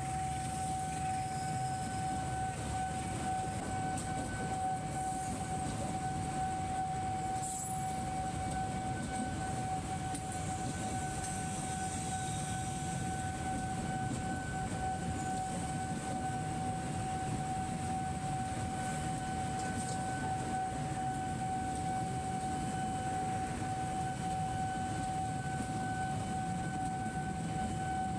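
Level-crossing warning alarm sounding one unbroken high tone while a train rumbles past.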